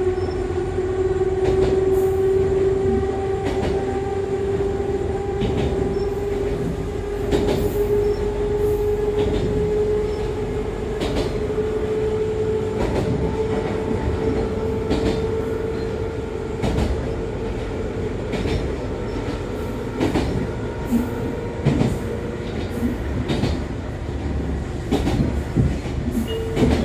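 Echizen Railway MC6101-series railcar, set MC6106 (the unit known as the odd-noise car), running: a steady whine from its MT54 DC traction motors and gearing that rises slowly in pitch, over a low rumble, with sharp clicks of the wheels over rail joints every second or two.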